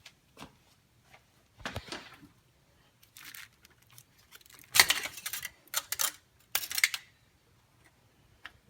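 Scattered short clicks and rustling handling noises, with three louder brief scraping clatters about five to seven seconds in.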